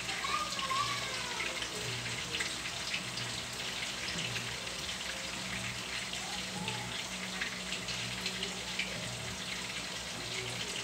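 Pork chop frying in a pan on an electric hot plate: a steady sizzle with many small scattered crackles.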